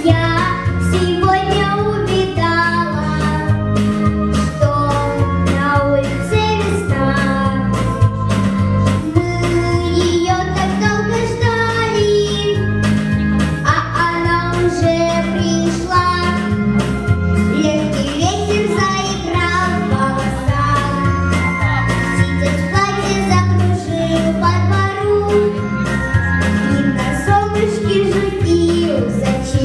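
A girl singing a song over music with a steady, regular beat.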